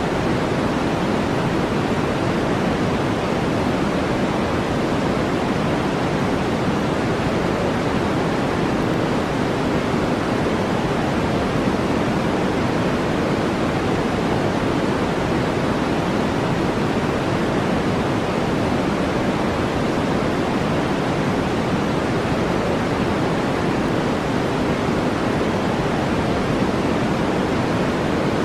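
Steady generated noise, even and unchanging, deep and weighted toward the low end like brown noise.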